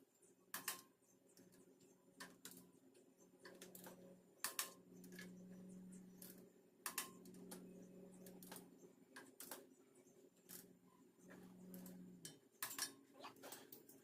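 Scattered sharp clicks and light metallic taps at irregular intervals, typical of hand tools being worked on bolts, over a faint steady low hum.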